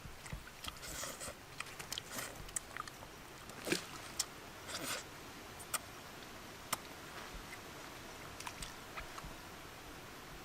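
A person eating at close range: chewing and biting sounds made up of small wet clicks and smacks, with a few sharper ones around the middle.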